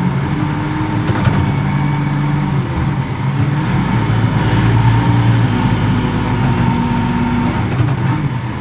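Reach stacker's diesel engine running at a steady drone, growing slightly louder around the middle.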